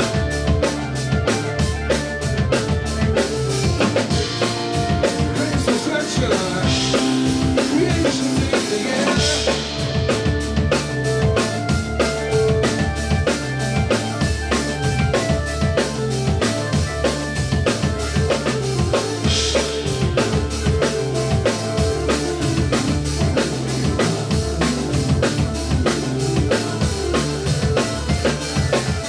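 Live band music with a drum kit keeping a steady beat on bass drum and snare under bass and sustained instrument notes, with cymbal crashes a few times.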